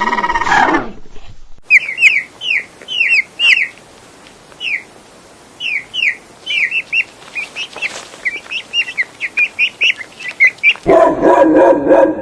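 Bird chirping: a string of short, sharp chirps, scattered at first and coming faster near the end. A held animal call cuts off just under a second in, and a lower, pulsing animal call starts near the end.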